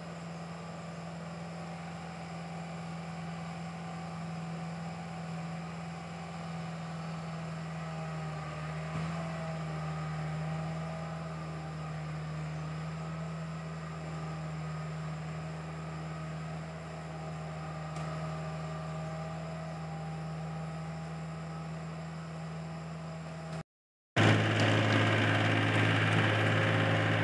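Diesel tractor engine running steadily, a low even hum. After a brief cut about 24 seconds in, the engine sounds louder and closer.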